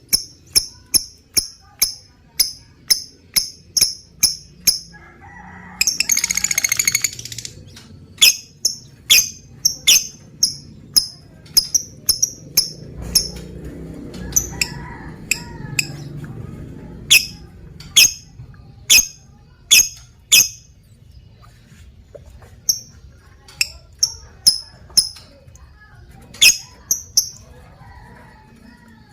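Lovebird calling: a run of short, sharp high chirps, about two to three a second, broken about six seconds in by a harsh buzzing trill lasting about a second and a half, then more chirps with a few short pauses.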